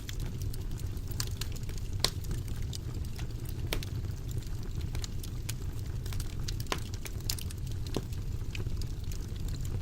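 Wood fire burning in a fireplace, crackling and popping at irregular intervals over a steady low rumble of flames; the sharpest pop comes about two seconds in.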